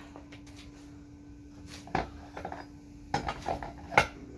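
Metal objects clinking and knocking together: one knock about halfway through, then a quick cluster of clanks, with the sharpest, loudest clank near the end. A steady low hum runs underneath.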